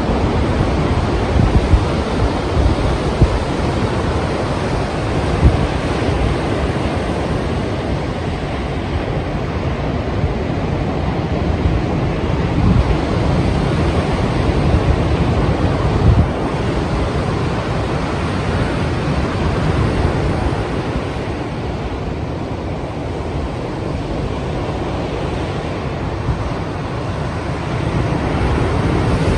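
Strong ocean waves breaking as surf, a continuous rushing wash that swells and eases, with wind buffeting the microphone.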